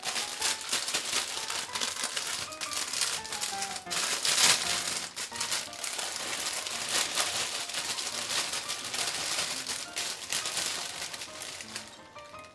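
Rapid crinkling and rattling of plastic food packaging being handled, over quiet background music. It is loudest about four and a half seconds in and tails off near the end.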